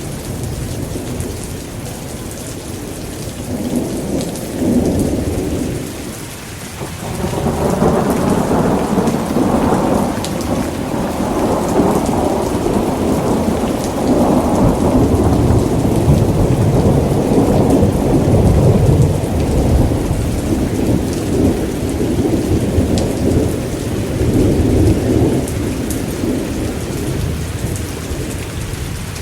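Thunderstorm: steady rain with rolling thunder, a short rumble about four seconds in, then a long low roll starting about seven seconds in and going on for most of the rest.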